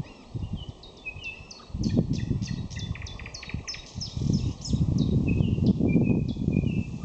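Nightingale singing: fast runs of repeated sharp whistled notes and trills, starting about a second in. Under it, a loud low rumbling noise starts about two seconds in.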